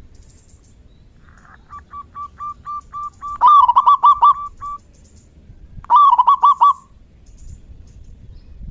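Zebra dove (perkutut) singing its staccato cooing song: a run of short, evenly spaced notes that picks up into a loud, quick phrase about three and a half seconds in, then a second loud phrase about six seconds in.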